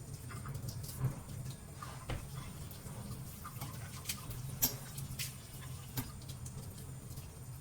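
Scattered light clicks and taps at an irregular pace over a steady low hum, the sharpest about halfway through and again near the end.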